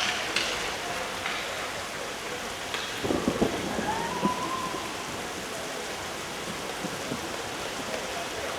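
Heavy rain drumming steadily on the arena roof, hard enough that water is getting into the rink. There are a few louder knocks and a brief call about three seconds in.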